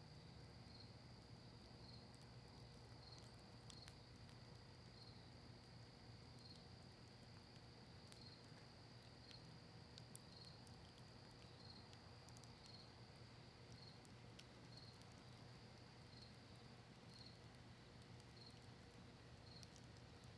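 Faint campfire of cedar and maple wood crackling with a few scattered sharp pops. Behind it crickets trill steadily, with a chirp about once a second.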